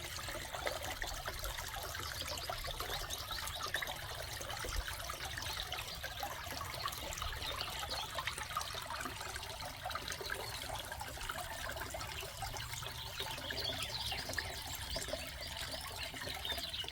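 Water trickling and splashing steadily, a continuous crackly wash with no break.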